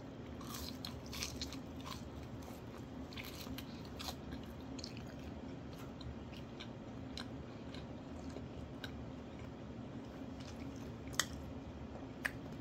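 Close-miked chewing of crispy fried fish cake (eomuk twigim): crunchy, crackling bites, densest in the first few seconds and sparser after, with two sharp clicks near the end.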